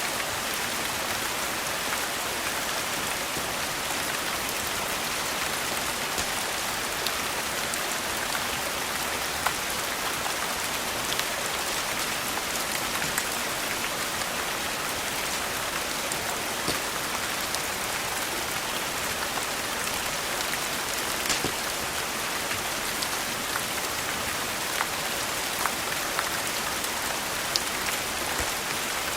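Steady rain falling, with scattered sharp crackles and pops from a wood fire burning in a fireplace.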